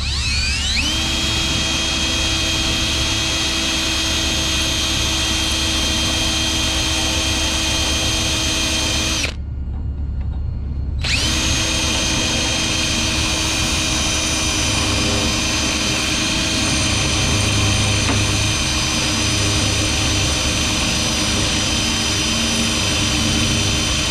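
Cordless DeWalt drill boring through metal: it spins up, runs steadily for about nine seconds, stops briefly, then runs steadily again. A constant low hum continues underneath, even while the drill is stopped.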